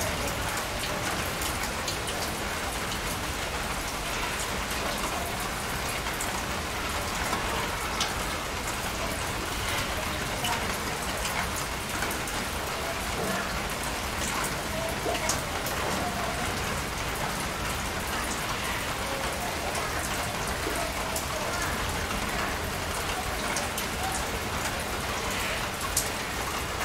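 Steady rain falling on surfaces, with scattered sharper drips and drops.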